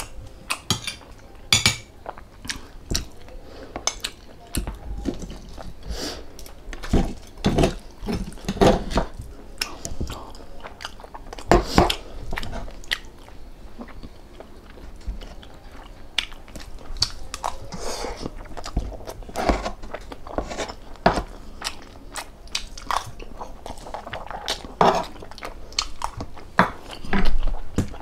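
A person chewing and biting food close to the microphone: irregular crunches and clicks, with occasional clinks of dishes or cutlery.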